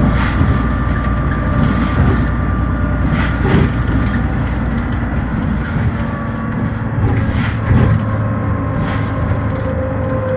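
Dennis Trident ALX400 double-decker bus's refitted diesel engine running under way, heard from inside the bus. The engine note shifts lower partway through, with a few short knocks and rattles from the body.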